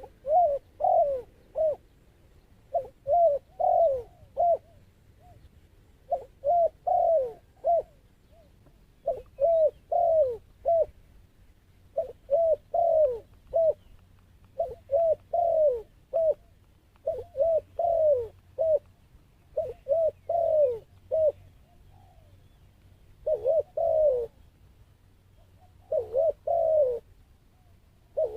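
A dove cooing in repeated phrases of three to five quick, down-slurring coos, a new phrase every two to three seconds: the call of a decoy dove used to lure wild doves to a trap.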